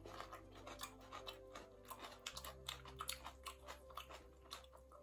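Quiet chewing and biting sounds of people eating chicken biryani by hand: a run of many small, quick mouth clicks and crunches.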